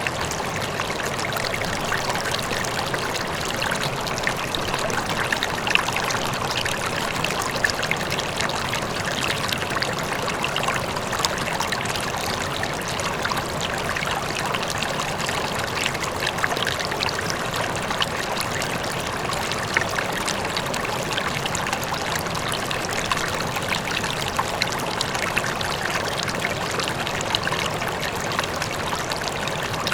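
River water flowing over rocks, a steady rushing with small splashes and trickles, with a faint waterfall in the distance.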